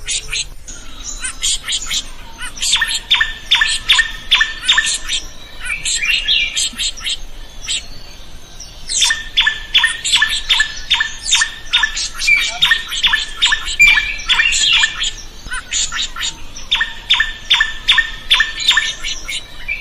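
Drongo singing loudly: three bouts of rapid, evenly repeated sharp notes, several a second, with stretches of varied chirps and squawks in between.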